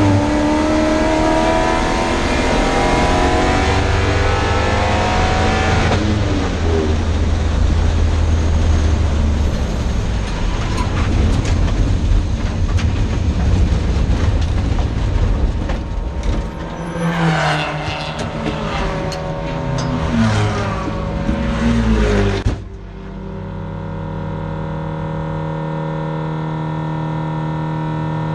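A race car's 5.0-litre V8 runs hard, its pitch climbing through the revs, then gives way to loud, ragged clattering noise. About 22 seconds in the engine sound cuts off suddenly, leaving a steady lower hum. This is the engine letting go at high revs: the crankshaft broke at the #2 main after the harmonic balancer snout split.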